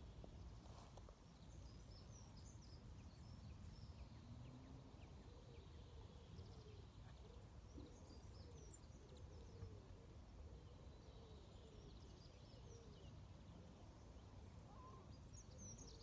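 Faint, scattered high chirps of small songbirds over a low, steady background rumble.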